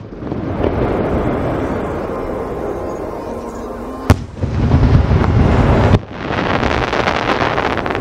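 Aerial firework shells bursting. There is a sharp bang at the start, then a long low rumble, a second loud bang about four seconds in with a heavier rumble that stops suddenly, and then a dense rapid crackle near the end.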